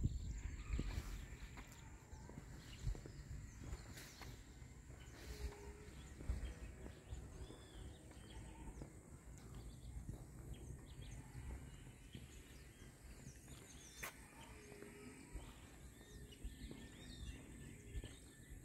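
Birds chirping here and there in short calls over a faint low rumble, with a thin steady high tone underneath.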